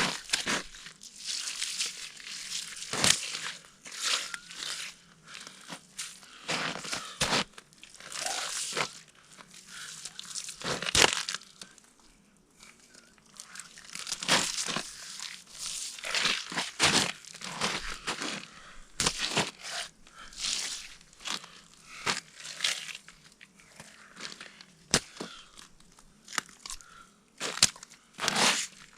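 Irregular crunching and scraping of snow and ice that comes and goes, with quieter gaps between bouts.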